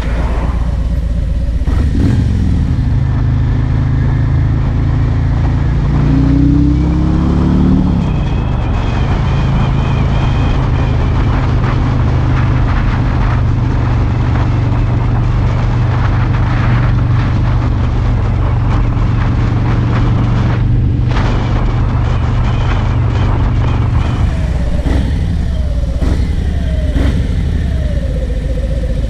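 Harley-Davidson Road King's V-twin engine on the road: it pulls up in pitch through a few gear changes, then runs at a steady cruise. Near the end it drops through a series of falling notes as the bike slows and downshifts.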